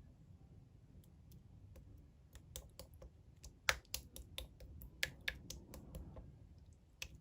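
Slime being handled, making a series of irregular sharp clicks and pops that come thickest and loudest in the middle.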